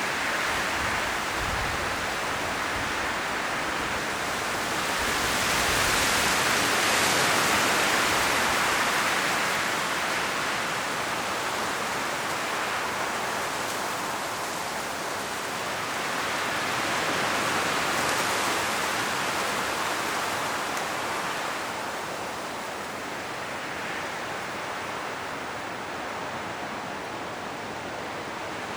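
Strong wind blowing through a forest, rushing through the leaves of the trees in slow gusts that swell and ease, with the strongest gusts about a quarter and two thirds of the way in.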